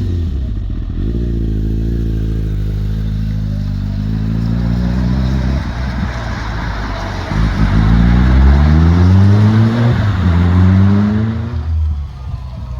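Kawasaki ZZR1200's inline-four engine accelerating, its pitch rising through the gears with upshifts about six and ten seconds in; the engine note falls away near the end.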